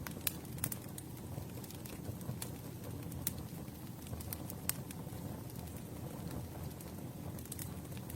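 Wood campfire burning: a low steady rumble of the flames with irregular sharp crackles and pops from the burning wood.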